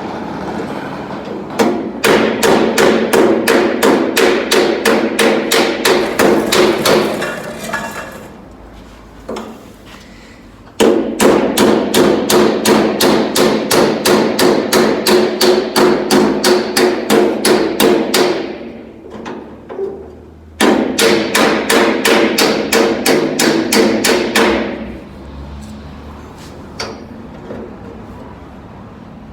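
Body hammer striking sheet steel against a hand-held dolly, planishing a dent out of a car door edge. Three runs of rapid, even blows come at about five a second, each with a metallic ring, with short pauses between the runs.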